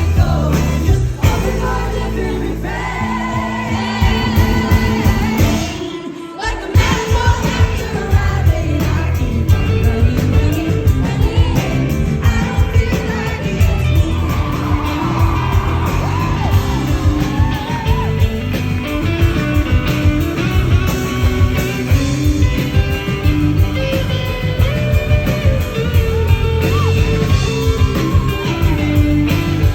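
Live band playing a folk-rock song with sung vocals, recorded from the audience. The music drops briefly about six seconds in, then the full band comes back in with a steady beat.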